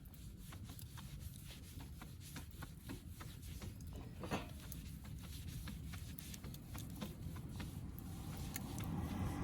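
Wood fire crackling: scattered small pops and snaps over a low rumble, with one sharper pop about four seconds in and the rumble growing louder near the end.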